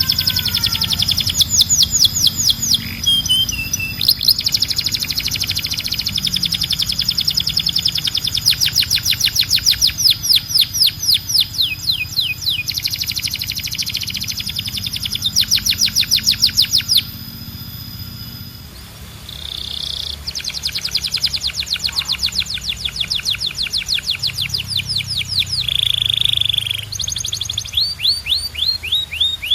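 Male canary singing: long rolling trills of rapid repeated notes, with a brief pause after about eighteen seconds before the song resumes with trills and short held notes.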